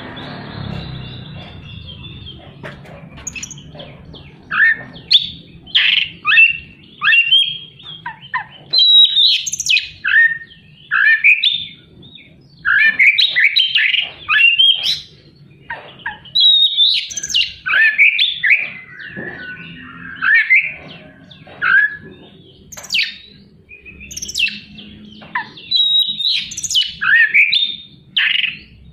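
Oriental magpie-robin (kacer) singing a loud, varied song of rapid whistled phrases and sharp, harsh notes, in short bursts with brief gaps. The song is packed with fills imitating other birds. It starts softly and turns loud about four seconds in.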